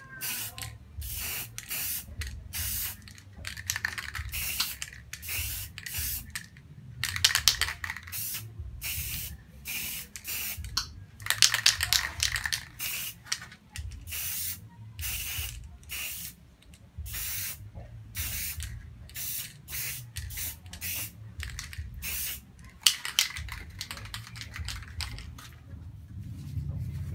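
Aerosol spray-paint can hissing in many short bursts, one after another, as letters are sprayed on.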